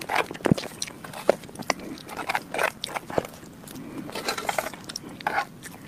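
Close-miked chewing of chocolate lava mousse cake: irregular wet, sticky mouth sounds with sharp clicks and lip smacks.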